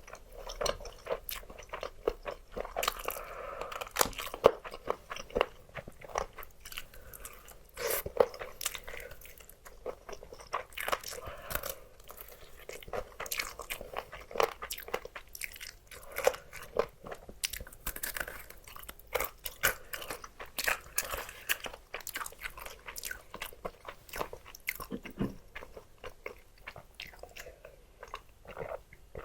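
Close-miked biting and chewing of crispy fried chicken, with dense, irregular crackling crunches throughout.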